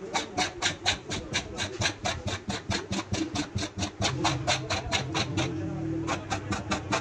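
Rapid, evenly repeated sharp strokes, about five a second, from work on a tractor tire. A low steady hum joins about four seconds in.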